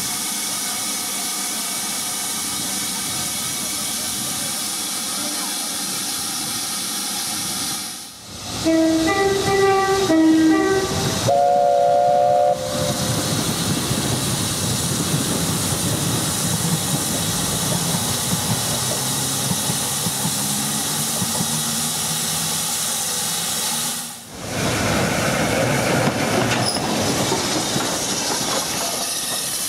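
Steady steam hiss from a BR Standard Class 5 steam locomotive standing close by. About 8 s in, a train horn sounds a run of short alternating two-tone notes and then a held chord, followed by the steady rumble of a diesel multiple unit passing. Near the end the steam locomotive moves off slowly, with hissing steam.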